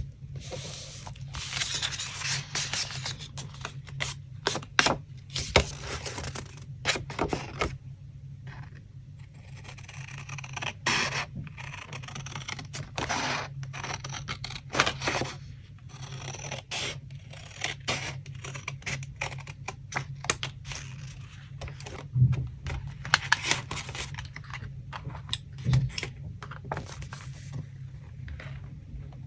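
Paper being handled and worked for a collage: irregular scraping and rustling of paper, with scattered sharp taps and clicks, over a steady low hum.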